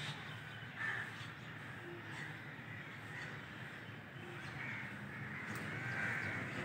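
Birds calling as they settle into the trees to roost at dusk: a few scattered calls over a low steady hum.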